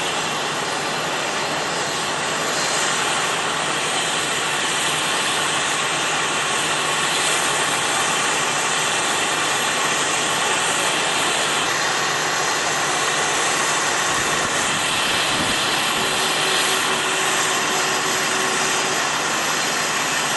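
Steady rushing vehicle engine noise, unbroken throughout, with a faint held tone for a few seconds near the end.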